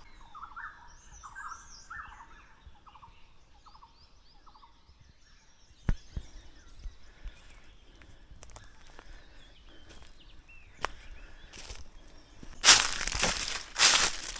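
Forest birds calling in quick runs of repeated notes over the first few seconds, with higher chirps above them. A few sharp snaps follow, then loud crunching footsteps on the forest floor near the end.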